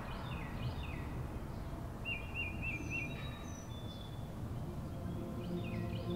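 Small birds chirping over a low, steady background rumble: groups of quick falling chirps near the start and again near the end, with a short warbling trill and a few thin high whistles in the middle. Soft music comes in near the end.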